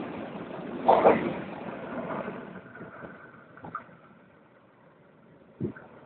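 Passenger train rolling slowly past, its wheels running on the rails, with a loud clatter about a second in; the rumble fades away after about three seconds, and a single short thump comes near the end.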